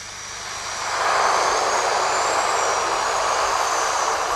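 Airplane engine noise that swells about a second in and then holds steady, with a thin high whine above it that rises slightly and falls back.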